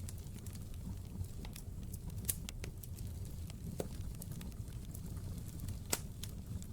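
Fire in a fireplace crackling: scattered sharp pops and snaps over a steady low rumble. The loudest pop comes near the end.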